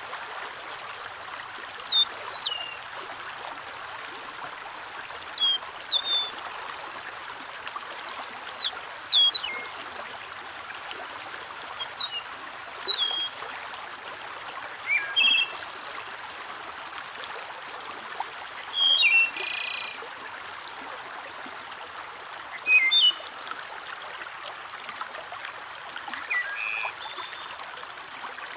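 Steady trickle of running water with a songbird calling over it: short, sharp notes that drop steeply in pitch, repeated every second or two, giving way about halfway through to lower, buzzier calls.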